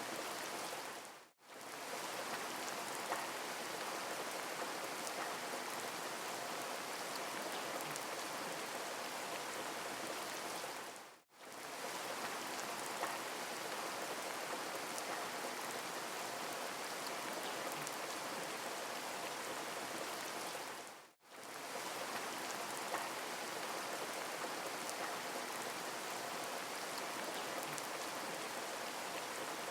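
Steady rain falling, an even hiss of drops that dips briefly to silence three times, about ten seconds apart, as the recording loops.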